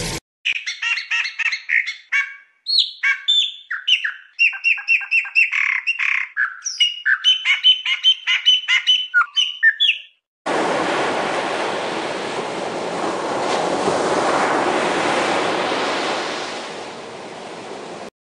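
Songbird singing in rapid runs of chirps and trills, broken by two short pauses. About ten seconds in it cuts to a steady rushing-water sound that swells and then fades down near the end.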